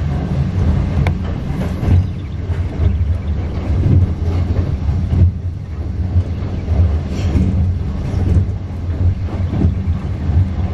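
Running noise inside a 25G passenger coach on the move: a steady low rumble of wheels on rail, with a few scattered clicks and knocks from the track.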